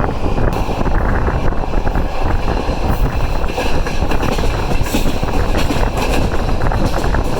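Passenger train running, a steady loud rumble with wind buffeting the microphone.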